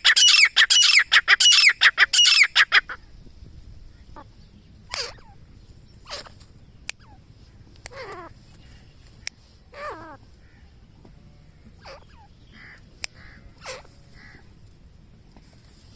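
Grey francolin calling: a loud, fast series of repeated falling notes that stops about three seconds in, followed by fainter, scattered calls and a few sharp clicks.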